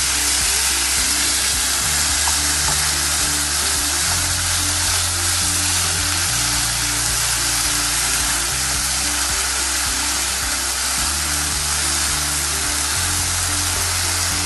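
Chicken strips with capsicum and green chillies frying in a pan: a steady sizzle. Background music with slow low notes plays underneath.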